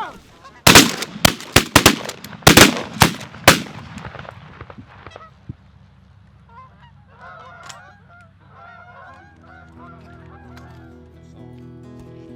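Geese honking, then a rapid volley of about seven shotgun blasts from several hunters in the first few seconds. The honking goes on after the shots, and background music comes in near the end.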